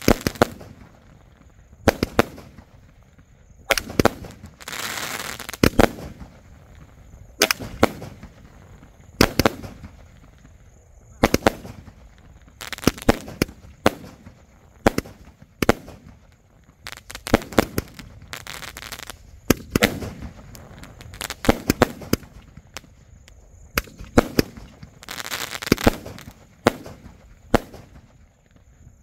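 Asok Fireworks "Rang Barat" 240-shot multicolour repeating sky-shot cake firing: sharp bangs of bursting shells, about one to two a second, some followed by a spell of crackling.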